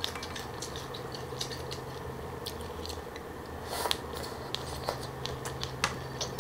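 Close-miked chewing of green papaya and pig-ear salad: a run of short, crisp crunches, with a louder bite of a fresh mouthful about four seconds in. A steady low hum runs underneath.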